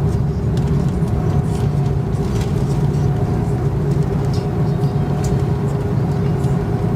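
Airliner cabin noise heard from a window seat: the jet engines and airflow make a loud, steady drone with a few faint held tones and occasional light rattles.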